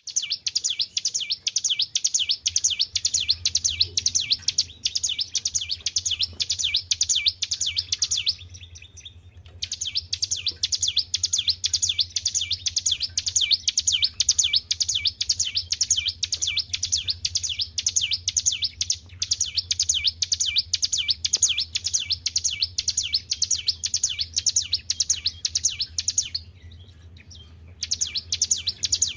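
A ciblek gunung songbird singing a long, fast, even string of high repeated notes, breaking off briefly twice, over a steady low hum.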